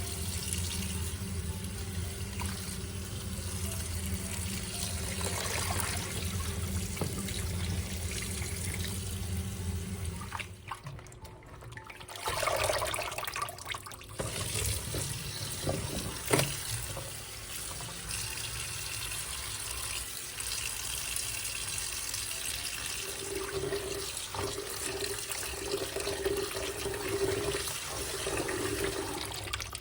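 Water running steadily, as from a tap, with a low hum underneath for the first ten seconds and a sharp knock about sixteen seconds in.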